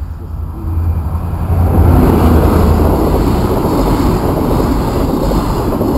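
High Speed Train (InterCity 125) with Class 43 diesel power cars passing at speed: a rush of engine and wheel-on-rail noise that builds over the first two seconds, then stays loud and steady.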